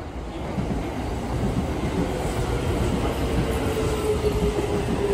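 Keio Line electric commuter train running into the station alongside the platform, its wheels rumbling on the rails. From about two seconds in a steady tone joins, falling slightly in pitch.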